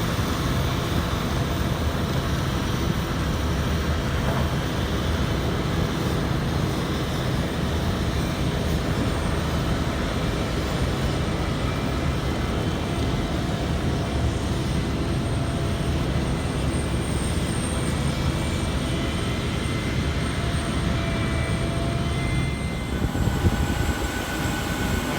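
Steady low vehicle rumble, even and unbroken, with a few faint steady tones over it.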